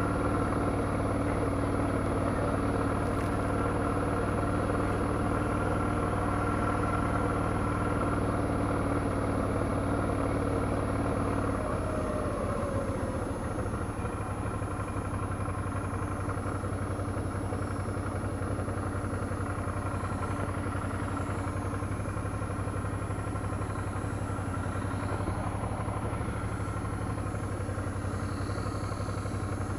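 Motorcycle V-twin engine of a 2008 Suzuki DL650 V-Strom running steadily, picked up by a helmet boom mic. About twelve seconds in the engine note drops and settles into a lower, rougher running sound.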